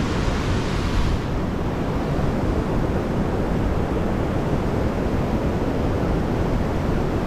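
Steady rush of the fast-flowing Niagara River rapids.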